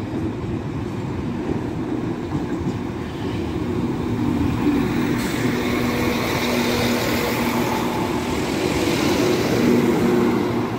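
Class 195 diesel multiple unit passing close by over a level crossing: engine hum and wheel-on-rail noise that grow louder about four seconds in as the carriages go past.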